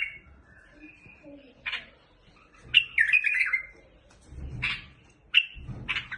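A bulbul singing short bursts of chirps and quick falling whistles, separated by brief pauses, with a few dull low thuds in between.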